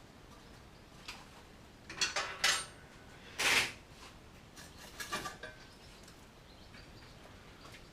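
Metal tools and parts clinking and scraping against metal in a few separate clanks, the loudest a short scrape about three and a half seconds in, with quiet between.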